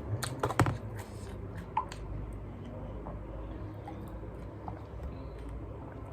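Raw cabbage crunching: a few sharp, crisp crunches in the first second, one more about two seconds in, then a quieter stretch.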